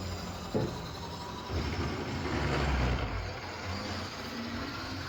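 HO scale DC model locomotive running along the track: its electric motor whirring and its wheels rolling on the rails, with a louder low rumble partway through and one sharp click about half a second in.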